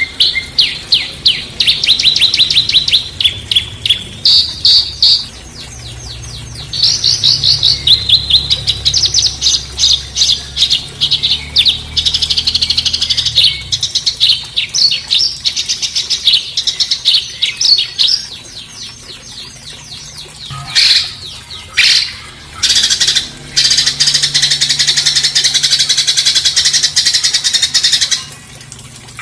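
Songbird singing loud, fast runs of rapidly repeated sharp notes, the rough rapid-fire 'tembakan kasar' phrasing used to train caged songbirds. In the last third the runs turn harsher and rasping, broken by short pauses.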